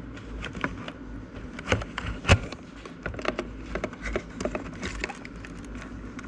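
Irregular small clicks and knocks of parts and wiring being handled inside an opened mini fridge's power supply area, with one sharper knock a little over two seconds in.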